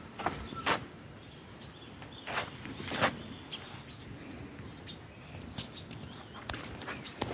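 A small bird chirping outdoors, short high arched chirps repeated about once a second, with scattered brief rustling noises in between.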